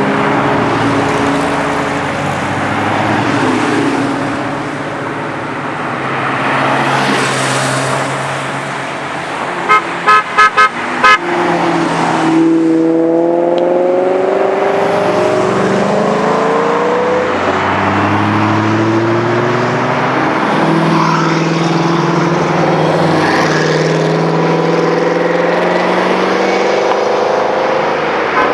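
Sports car engines running, with a car horn tooting four short times about ten seconds in. Right after, an engine revs up, its note climbing in pitch over a few seconds, then settles into a steady run.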